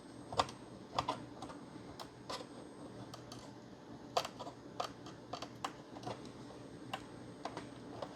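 Irregular small clicks and taps, about a dozen, from a screwdriver and the plastic and metal parts of a disassembled Xbox One S console being handled.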